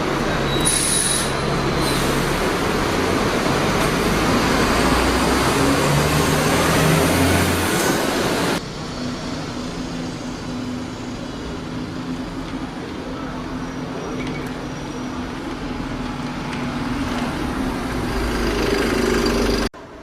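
A loud vehicle passes close by, with a brief high squeal about a second in. About eight and a half seconds in, the sound cuts to a quieter scene of a steady engine hum and traffic.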